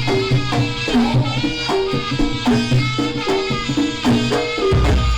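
Javanese jaranan gamelan music: drums and pitched gong-chime tones play a short figure that repeats about once a second, with a deep, heavy drum or gong stroke near the end.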